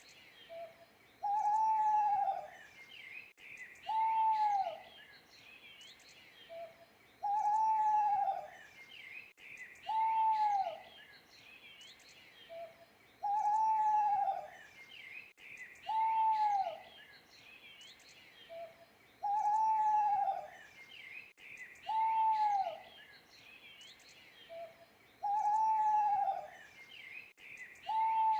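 An owl hooting in a steady pattern: a short note, then two long hoots that rise and fall in pitch, repeating about every six seconds. Small birds chirp and twitter faintly behind it.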